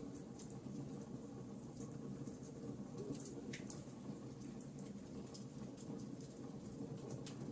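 Wood fire in a fireplace crackling: frequent small, sharp, irregular crackles and pops over a steady low background.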